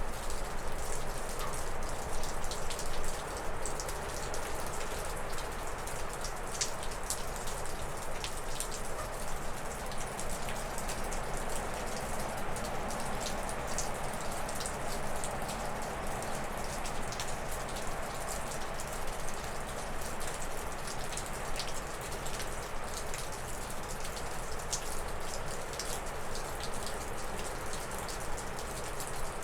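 Wind gusting through spruce and birch trees, a steady rush that swells with a stronger gust near the middle. Over it, meltwater from thawing snow drips off a roof in irregular sharp ticks.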